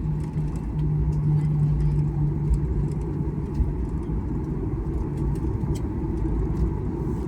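Steady cabin rumble of a Boeing 737-800 taxiing after landing, its CFM56 engines humming with a low drone under the rumble of the airframe and wheels.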